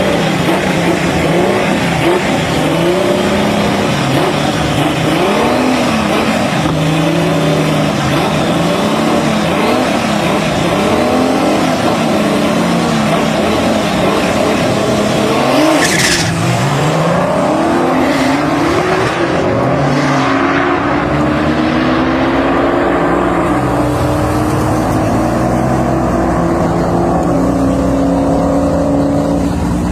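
Twin-engine turbocharged VR6 Volkswagen Golf running hard, its engine notes repeatedly rising and dropping as it revs and shifts through the gears, with a sharp crack about halfway through.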